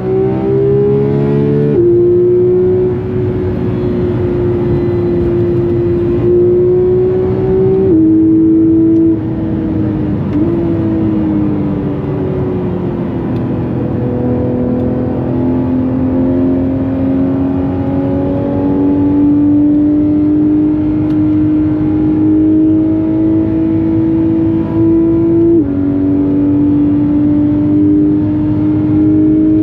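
Porsche 991.2 GT3 RS's naturally aspirated 4.0-litre flat-six heard onboard, pulling through the gears. Its note climbs steadily and drops sharply at each of several quick upshifts, and falls away for a few seconds in the middle as the car slows.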